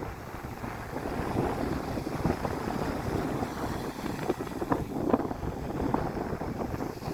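Wind buffeting the microphone on a small sailboat, with irregular water splashing and sloshing.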